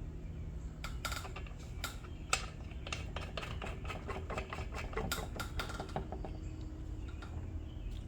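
Irregular metallic clicks and clinks of a hand tool on a Ryobi small engine as its spark plug is changed, coming closer together about five seconds in.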